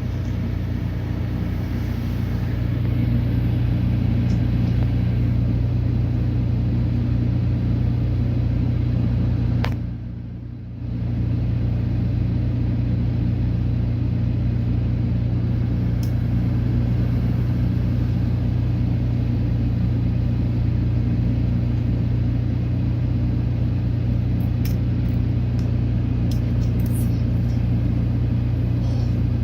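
Car engine running steadily, heard from inside the cab as a constant low rumble. About ten seconds in there is a click and the sound drops away for about a second before returning.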